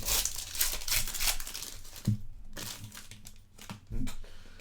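Crinkling of a Topps Chrome trading-card pack wrapper and cards being handled, densest in the first two seconds, then thinning to a few soft knocks.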